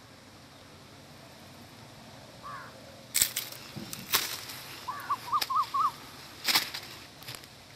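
A bird calling: one short rising chirp, then a quick run of five chirps. Several sharp cracks and clicks come from about three seconds in.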